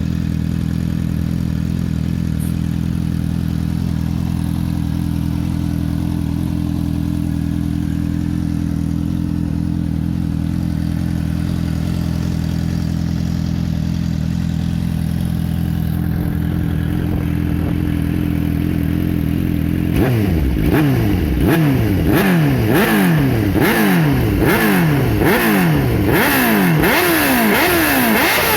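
2005 Suzuki GSX-R600 K5 inline-four motorcycle engine running through a Laser Pure Sound aftermarket exhaust, idling steadily at first. About twenty seconds in it starts being revved in quick blips, roughly one a second, each rising and dropping back.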